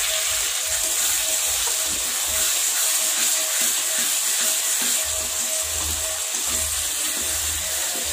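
Chicken curry frying in oil in a kadai, with a steady sizzle while it is stirred with a long ladle.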